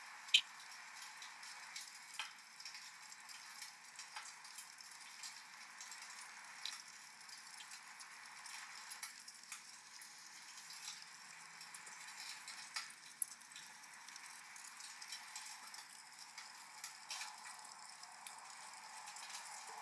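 Wood fire in a fireplace crackling, with irregular sharp pops over a steady hiss of rain. The sharpest pop comes about half a second in.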